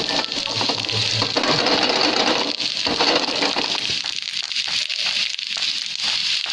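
Steamed momos frying in a hot, lightly oiled pan: a steady sizzle and crackle of oil, easing a little after the middle.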